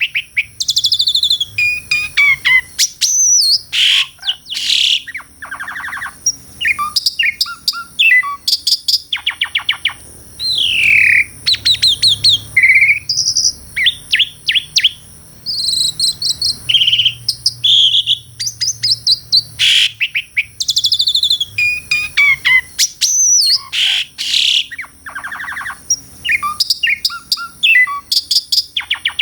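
Pied starling (jalak suren) singing a long, varied song, phrase after phrase with short gaps. The song mixes whistles that fall in pitch, fast rattling trills and harsh scratchy notes.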